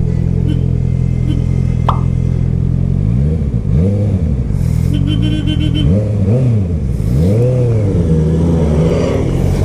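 Honda CB650R's inline-four engine running steadily at low revs. From about three seconds in, its revs rise and fall in about five quick swells, then settle again.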